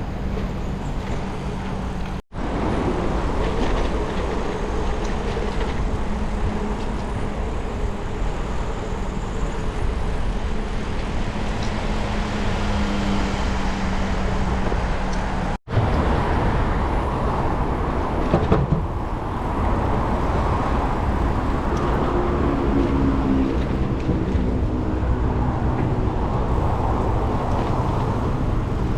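Steady road and wind noise from riding on a road, with the sound of passing traffic. The sound drops out completely for a moment twice, about two seconds in and about halfway through.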